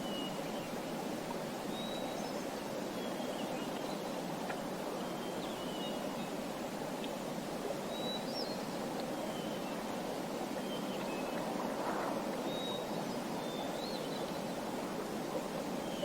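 Small birds chirping: short, high, thin notes about every second or two, some flicking up or down in pitch, over a steady rushing background noise.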